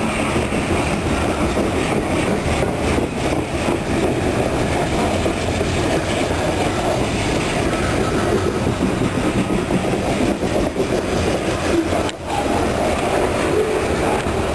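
A loaded coal train's hopper cars rolling past: a steady rumble of steel wheels on the rails, with some clacking.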